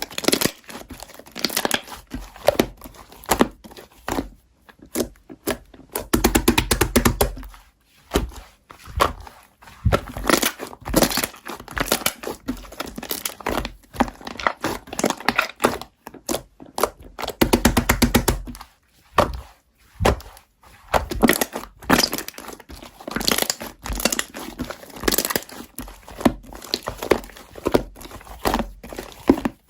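Close-up crinkling, crackling and tapping handling sounds made up of many irregular sharp clicks, with two runs of rapid clicking about six and eighteen seconds in.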